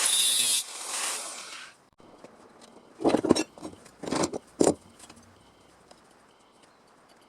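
A power tool running with a loud hiss and winding down, followed by a few sharp metallic clanks and clatter as metal parts or tools are handled during sheet-metal fabrication.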